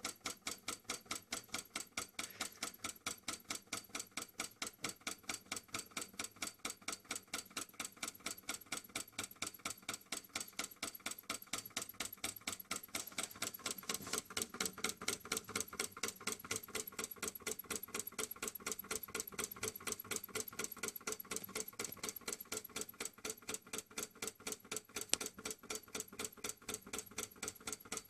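Solenoid engine with a flywheel running, its solenoid plunger clicking in a fast, even rhythm.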